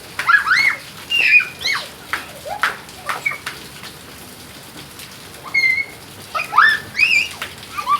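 Steady rain falling, with short high-pitched squeals that rise and fall in pitch in clusters at the start, the middle and near the end.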